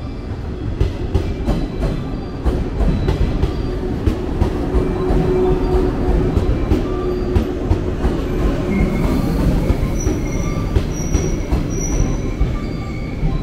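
A JR West 115 series electric train pulling in along the platform: a steady rumble with wheels clacking over rail joints, and a high squeal for a few seconds near the end as it slows.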